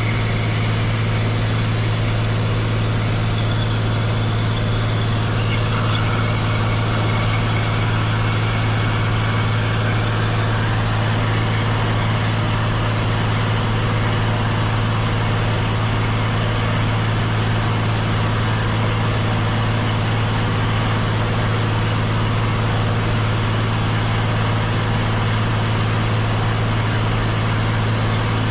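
Cessna 182 Skylane's piston engine and propeller droning steadily in cruise, heard from inside the cabin: one constant low hum with even overtones and no change in pitch or level.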